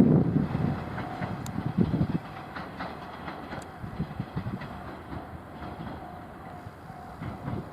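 KiHa 110-series diesel railcars on the move, the wheels clacking over the rail joints. The loud low rumble fades over the first two seconds, leaving a quieter running sound with scattered clicks.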